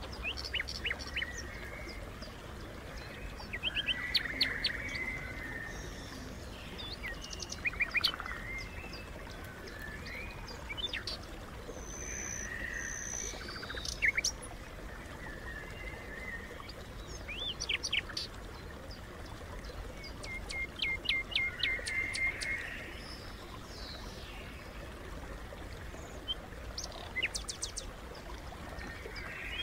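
Small birds chirping and singing: short calls, quick sweeps and trills come and go, including a fast run of repeated notes about two-thirds of the way through.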